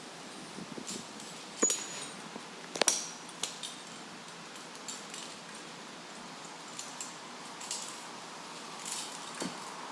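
Metal climbing hardware clinking: a few sharp clinks, the loudest about two and three seconds in, one with a short ring, over a steady faint hiss.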